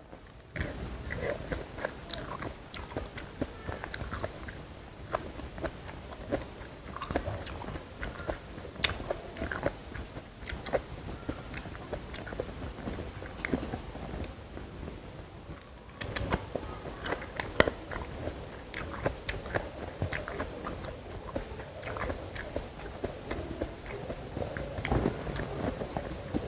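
Close-miked chewing of crunchy food, a steady run of crisp cracks and wet mouth sounds. A brief lull comes about two-thirds of the way through, then a fresh bite starts another burst of crunching.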